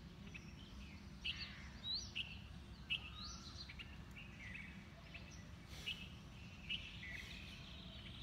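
Birds chirping and calling in short, scattered notes over a steady low background rumble.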